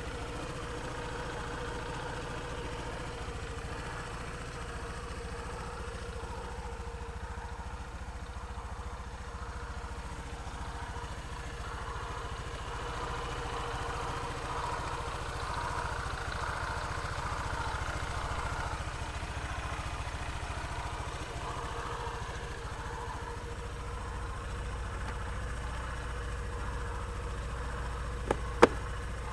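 Honda PCX125 scooter's single-cylinder eSP engine idling steadily. Near the end come two sharp clicks close together.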